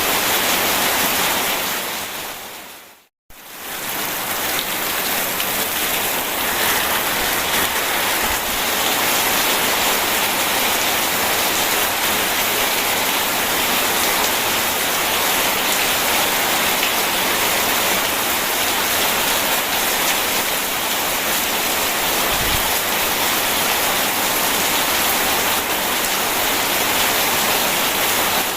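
Steady rain with rushing river water, an even hiss. About three seconds in it fades out to a moment of silence and fades straight back in, like the seam where a recorded loop restarts.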